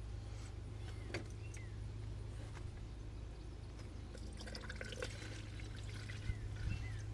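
Coolant trickling and gurgling from an open bleeder screw on a Jeep Wrangler JK's 3.6-litre cooling system as trapped air is bled out, with a steady low hum underneath.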